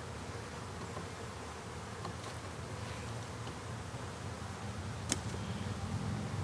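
Honey bees buzzing around an opened hive, a steady low hum. A single sharp click about five seconds in.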